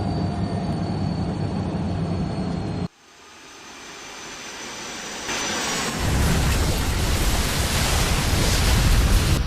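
Jet airliner sound effects: a steady engine rumble that cuts off abruptly about three seconds in, followed by a rushing roar that swells louder and louder, as of a plane diving after losing its engines.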